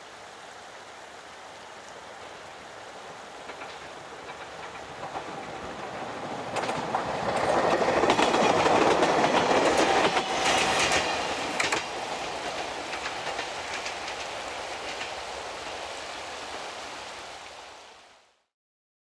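Two-car Moka Railway Moka 14 diesel railcar passing by. Its engine and wheel noise grows louder, peaks with the wheels clacking over rail joints about seven to twelve seconds in, then fades away.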